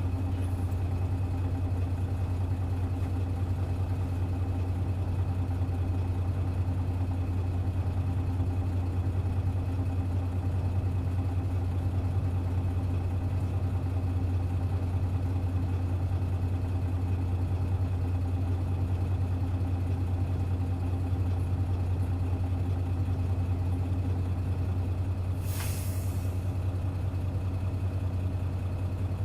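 Hino Blue Ribbon KC-HU2MMCA city bus diesel engine running at a steady, unchanging speed, with a brief hiss about 25 seconds in.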